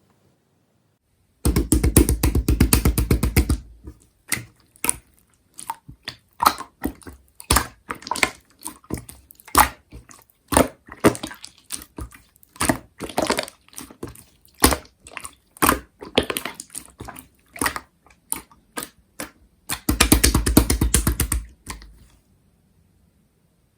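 Slime being squished and poked by hand, giving sharp clicking and popping sounds of trapped air. Twice, about a second and a half in and again near the end, it breaks into a couple of seconds of rapid, dense popping with a heavy low thud.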